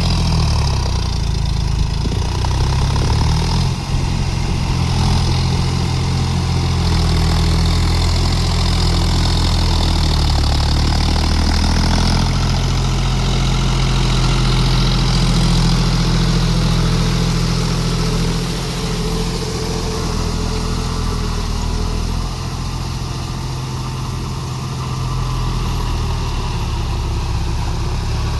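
John Deere 5050D tractor's three-cylinder diesel engine running steadily, its speed rising and falling a few times.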